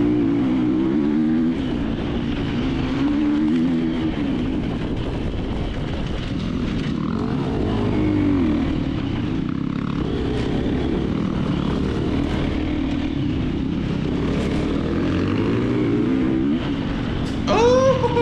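KTM 350XC-F dirt bike's single-cylinder four-stroke engine revving up and down under race load. It rises and falls repeatedly, with a louder rev near the end.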